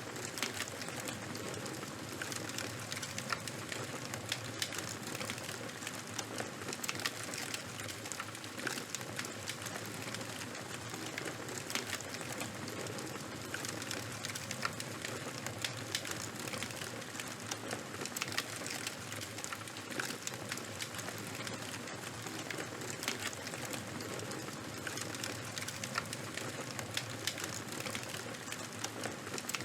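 Charcoal and bonfire fire burning, a steady hiss with many small crackles and pops scattered throughout.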